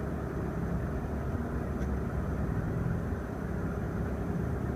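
Steady low outdoor background rumble, like distant road traffic.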